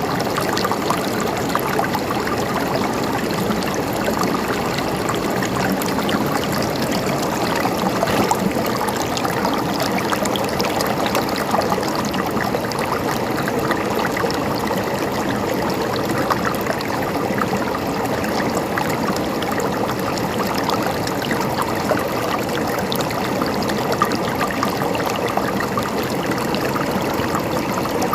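Flowing water babbling and trickling steadily, with a constant patter of small splashes.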